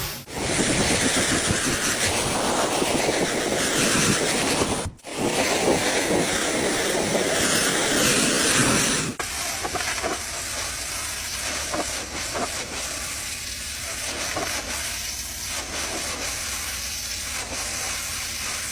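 Storm wind roaring and rushing, loud for the first nine seconds with a brief break about five seconds in, then a quieter rush with scattered knocks.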